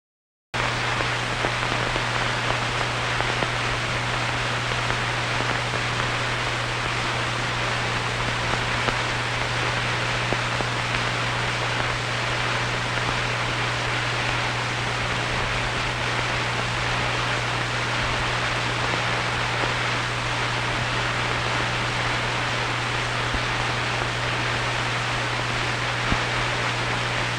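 Steady hiss with a constant low hum from an old film's soundtrack, with a few faint clicks; it starts abruptly about half a second in.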